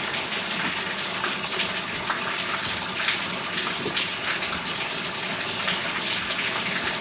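Water pouring in a steady stream and splashing into the flooded rear bilge of a bass boat, filling it up toward the automatic bilge pump's float sensor.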